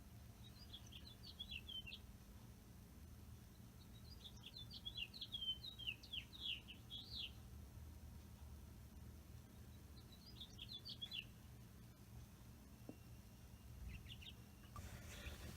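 House finch singing faintly: short warbled phrases of quick, jumbled notes, with pauses between them.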